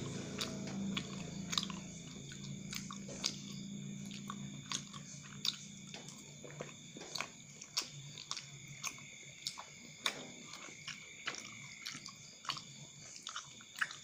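Close-up chewing of cilok, chewy tapioca balls in sambal sauce, with wet mouth sounds and many sharp clicks throughout. A low steady hum sits under the chewing in the first few seconds.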